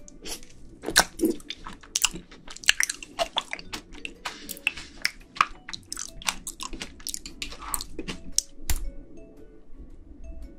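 Close-miked chewing of rolled ice cream and pudding: a quick, dense run of wet, crunchy mouth clicks that stops about nine seconds in. Soft background music plays underneath.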